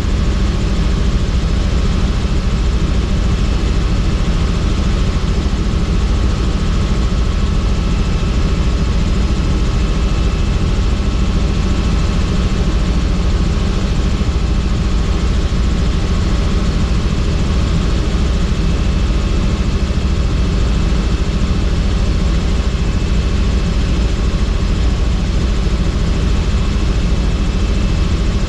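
Helicopter running steadily: a loud, unbroken rapid chop of the rotor blades under a constant engine drone.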